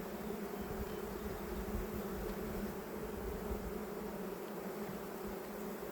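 Honey bees buzzing steadily around an open hive, a dense hum of many wingbeats.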